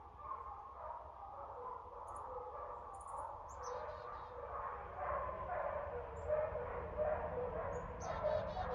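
Dogs barking repeatedly, the barks coming thicker and louder from about five seconds in, with a few short bird chirps high above them.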